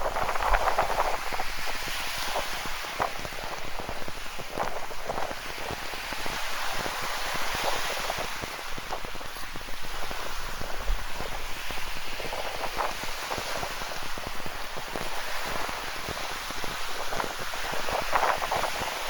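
Ocean waves washing on a rocky shore with rain falling: a steady hiss that swells and eases every few seconds, with splashes near the start and again near the end.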